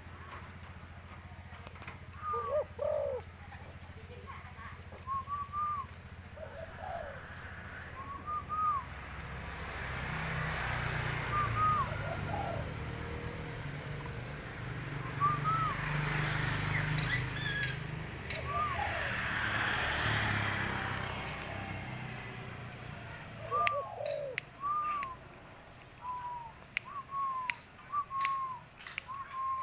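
Spotted dove cooing in repeated short phrases. In the middle a broad rumbling noise swells and fades, and a few sharp clicks come near the end.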